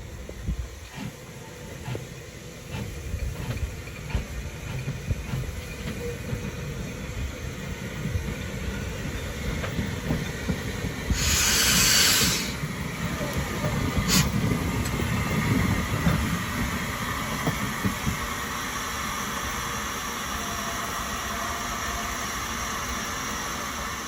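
Furness Railway No. 20 steam locomotive working: short chuffs and knocks, then a loud burst of steam hiss about eleven seconds in lasting over a second, followed by a steady rolling rumble.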